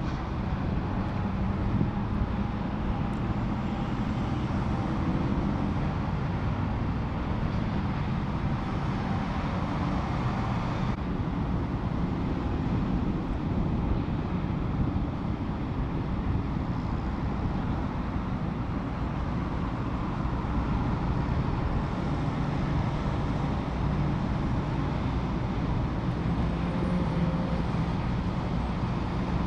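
Steady freeway traffic and vehicle engine noise: a continuous low rumble with a faint engine hum and no sharp events.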